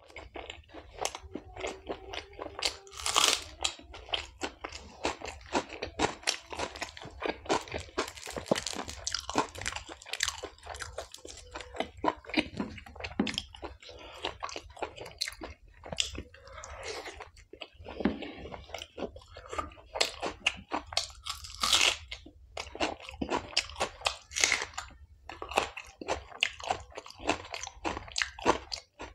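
Close-miked chewing of chole bhature, fried bread and chickpea curry, full of small mouth clicks, with a few louder bites. Fingers tearing the bread and scooping the curry from the plate.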